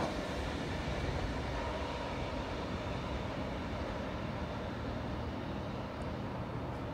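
V-set double-deck intercity electric train running away down the line, a steady low rumble with hiss that slowly fades.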